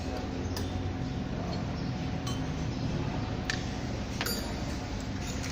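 Metal tools and engine parts clinking as they are handled, about five sharp clinks spread over several seconds against a steady low background noise.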